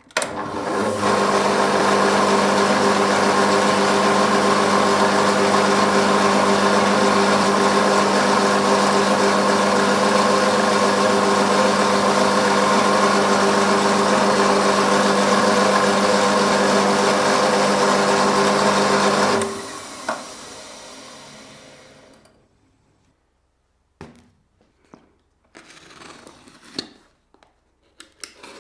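Electric-motor-driven machine tool running at a steady speed, then switched off about two-thirds of the way through and spinning down over a few seconds. A few light clicks and knocks of handling follow.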